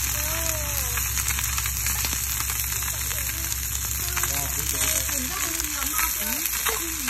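Food frying with a steady sizzle, dotted with small crackles and pops.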